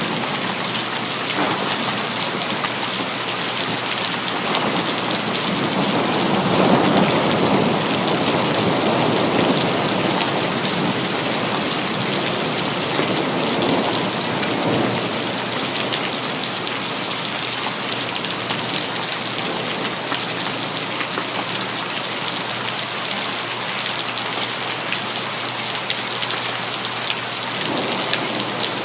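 Steady heavy rain hissing and pattering on city surfaces, with a roll of thunder swelling and fading about a fifth of the way in, and two fainter rumbles later on.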